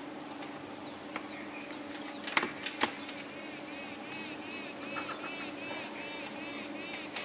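A bird chirping in a quick, even series of short rising-and-falling chirps, about three a second, starting a few seconds in. Just before, several sharp clicks, the loudest sounds, and a steady low hum throughout.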